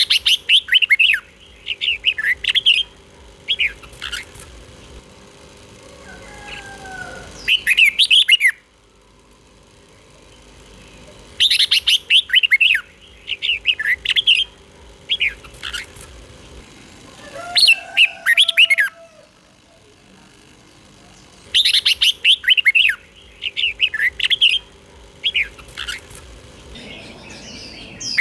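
Red-whiskered bulbul singing: bouts of quick, chirpy whistled phrases, several short notes to a group, returning about every ten seconds with brief pauses between.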